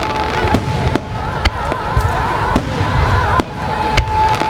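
Fireworks finale: aerial shells bursting in quick succession, sharp bangs about every half second over a continuous low rumble. A high whistle-like tone wavers and then holds steady through the second half.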